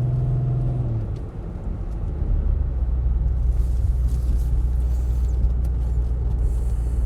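Car engine and road noise heard from inside the cabin while driving: a steady engine hum stops about a second in, and after a brief dip a lower, steady rumble takes over from about two seconds on.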